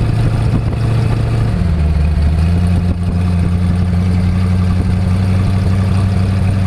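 Twin-turbocharged 440 big-block V8 of a rat rod running steadily, its note changing about a second and a half in.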